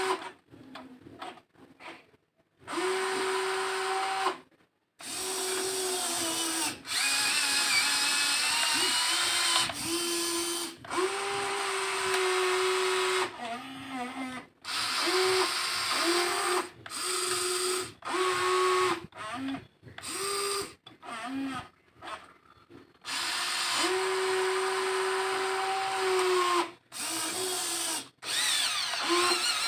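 Small electric motors of a WLtoys XK 16800 RC toy excavator whining in stop-start bursts as the arm and bucket are worked. The runs last from about half a second to three seconds, with short silent gaps, and the pitch shifts a little from one run to the next.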